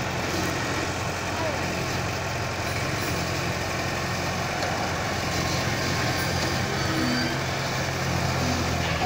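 Diesel engine of a mini wheel loader running steadily, with a constant low hum.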